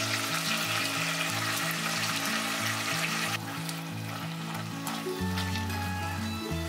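Pork belly and kimchi sizzling as they stir-fry in sesame oil in an enamelled pot. The hiss is loudest at first and drops a little just over three seconds in, with light clicks of chopsticks stirring the pan after that.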